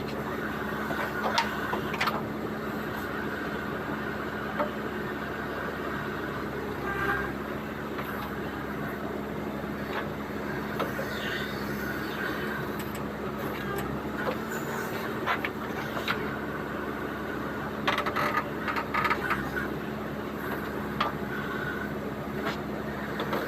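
Diesel engine of a JCB 3DX backhoe loader running steadily at work, with scattered metallic clanks and knocks from the working machine, several of them close together near the end.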